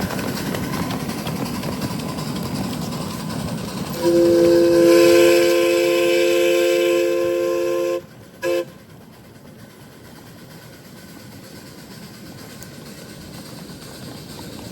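Miniature railroad train running, then a long blast of a locomotive's chime whistle, a chord of several steady tones lasting about four seconds that cuts off sharply, followed by one short toot. The train keeps running more quietly afterwards.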